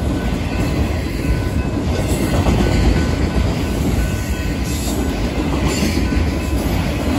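BNSF freight train rolling past close by: a steady heavy rumble of wheels on rail, with occasional clacks and a faint high wheel squeal.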